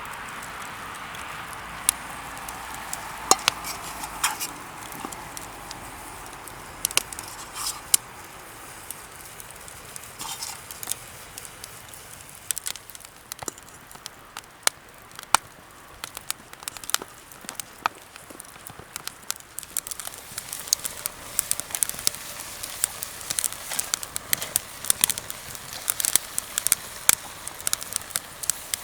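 Wood campfire crackling, with sharp pops scattered throughout that come more often in the second half.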